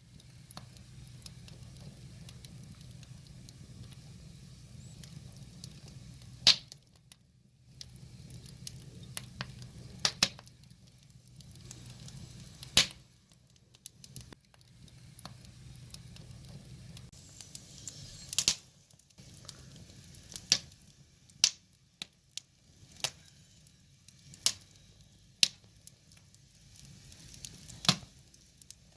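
Wood fire burning, with irregular sharp crackles and pops from the logs over a low steady hiss.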